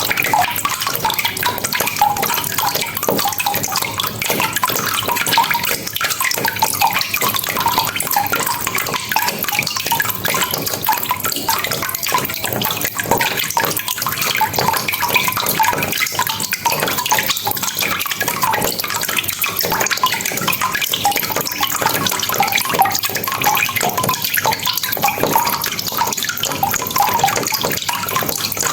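Steady rain falling, a dense patter of drops with drips and small splashes.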